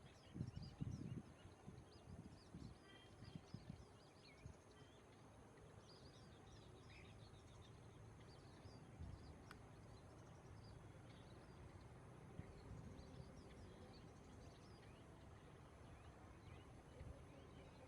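Birds chirping faintly with many short, high calls over a steady low background noise, with a few low thumps in the first few seconds.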